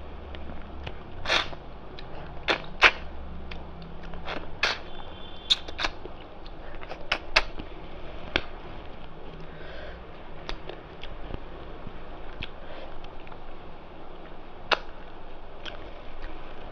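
Close-up eating sounds: irregular sharp clicks and smacks of chewing mutton curry and rice, biting on the meat's small bones, about fifteen over the stretch with the loudest about three seconds in.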